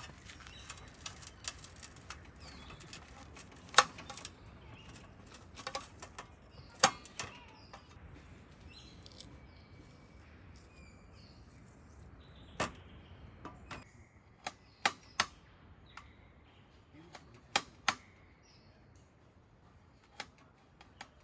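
A wood campfire crackling: irregular sharp pops and snaps at a low background, with a few louder cracks scattered through.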